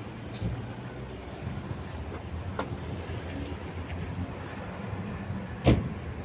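Car running with a steady low rumble, and a single sharp knock near the end.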